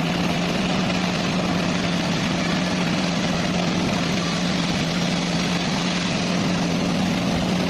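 A large engine running steadily at an even speed, with a constant low hum.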